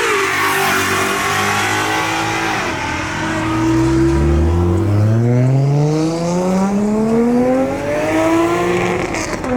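A car engine at a car meet dips in revs near the start, then accelerates hard, its pitch climbing steadily for about five seconds.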